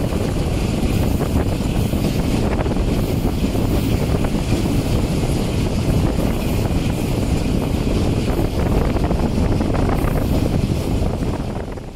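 A passenger train running at speed, heard from an open coach window: a steady rush of wind and a low rumble of the wheels on the rails. The sound fades out near the end.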